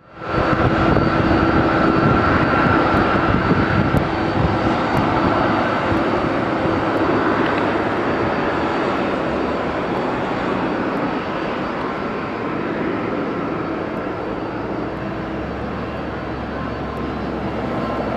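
Airliner engines running loud with a steady whine over a rushing roar, slowly fading as the aircraft moves away.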